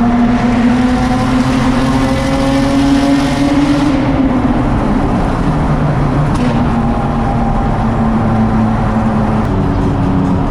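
1995 Ford Probe's 2.5-litre KL-DE V6 running through its exhaust while being driven, the note climbing slowly for about four seconds, then dropping as the revs fall and holding steady.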